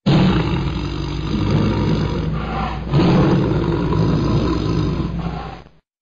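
Siberian tiger roaring: two long roars back to back, the second starting about halfway through and louder, then cutting off abruptly near the end.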